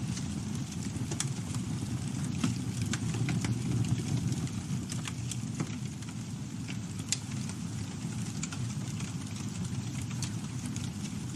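Campfire burning: a steady low rumble from the flames with irregular sharp crackles and pops from the burning wood.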